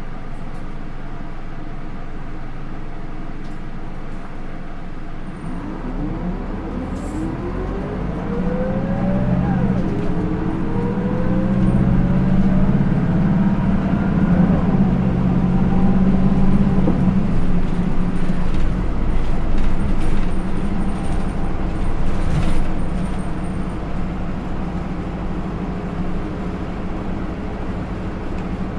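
Onboard sound of a Hino Rainbow II route bus running on its Isuzu 4HK1-TCH four-cylinder turbo diesel with Aisin automatic gearbox. After a few seconds of steady running, the engine note rises as the bus accelerates, steps down at a gear change about ten seconds in and climbs again, then eases off for the rest of the stretch.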